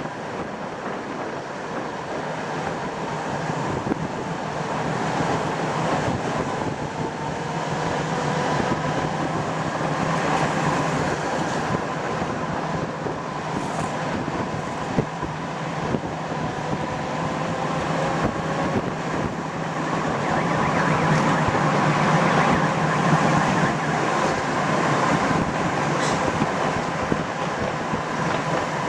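Tram running between stops, heard from inside the car: a steady rumble of wheels on rails under a whine from the traction motors that slowly shifts in pitch, swelling louder in the second half.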